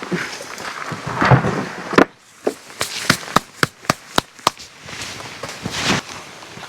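Wrapping being handled and folded: rustling, then a run of about a dozen sharp crinkling clicks, and more rustling near the end.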